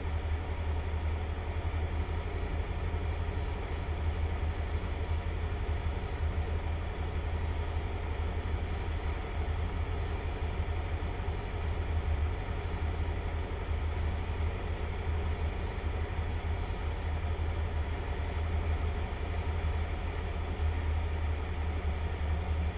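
Cessna 152's four-cylinder Lycoming piston engine and propeller heard from the cockpit as a steady drone at reduced power on final approach.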